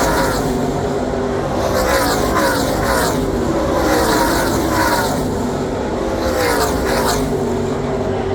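NASCAR Truck Series race trucks' V8 engines passing at speed in a string, one after another, each engine note falling in pitch as it goes by.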